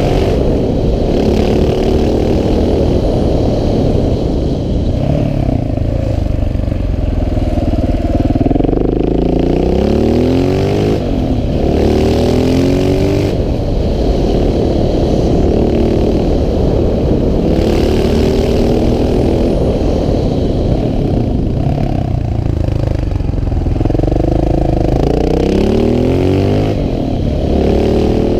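KTM 690 SMC R's single-cylinder engine running hard, its pitch rising and falling over and over as the bike accelerates and slows.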